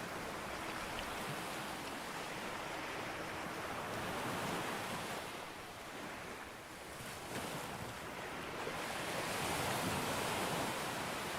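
Sea waves breaking and washing up a beach: a continuous rush of surf that ebbs a little past the middle and swells again toward the end as the next wave comes in.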